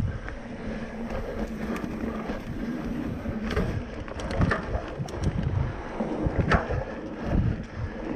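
Mountain bike riding over a loose dirt trail: steady tyre and wind noise on the microphone, broken by a few sharp clicks and rattles from the bike.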